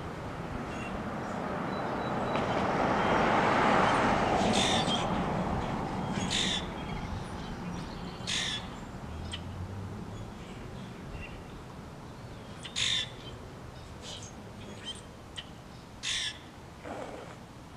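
Short bird calls repeated every few seconds over a rush of noise that swells to its loudest about four seconds in and then fades away.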